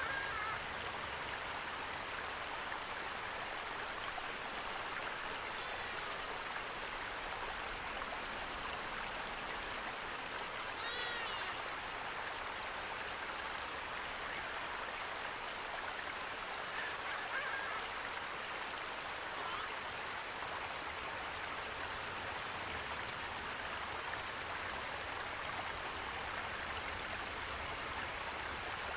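Steady rushing of running water, with a few faint bird calls, one clearer about eleven seconds in.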